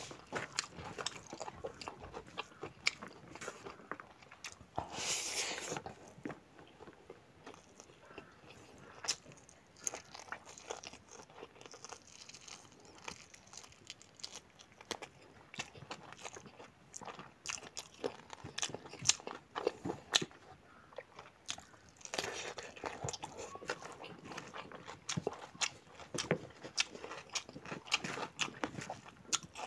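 Close-up chewing and biting sounds of a man eating pork curry and rice with his hand: many short, irregular clicks and smacks as he chews.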